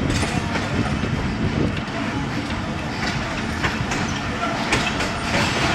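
Passenger train pulling out of a station, its coaches rolling past with a steady rumble and wheel clatter over the rail joints, the clicks coming more often in the second half.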